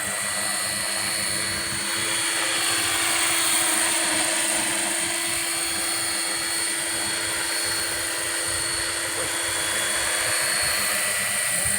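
Battery-powered scale RC model Airbus H145 helicopter flying, its rotor running steadily with a high, even motor whine.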